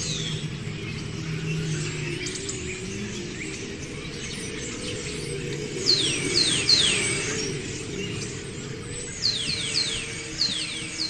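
Bird calls: quick downward-sliding chirps in runs of three or four, about six seconds in and again near the end, over a low steady hum.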